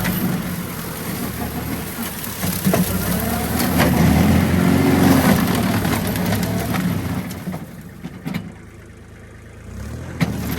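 Kubota machine's diesel engine running, swelling in the middle and then dropping back to a quiet low hum near the end before picking up again, with a few sharp knocks.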